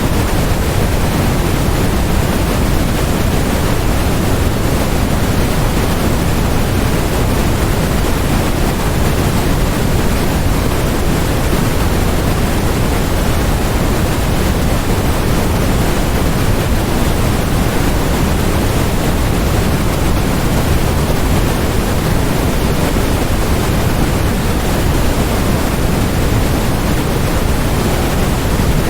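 Continuous generated white noise: a steady, even hiss that never changes, heavier in the low end.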